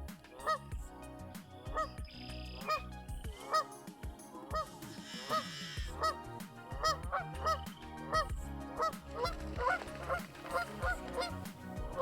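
Geese honking over and over: short calls spaced about half a second to a second apart at first, then faster and overlapping from more than one bird in the second half. The geese are honking at a person who has come too close.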